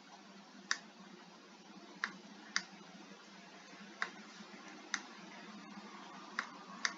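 Computer mouse clicking: about seven sharp, separate clicks at uneven intervals, over a faint steady hum.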